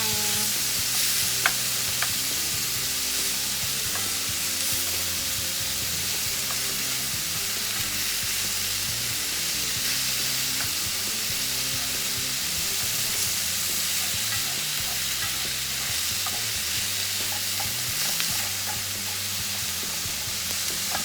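Onion, garlic, ginger and freshly added tomatoes sautéing in a pan, a steady sizzle, with a couple of light utensil taps about two seconds in.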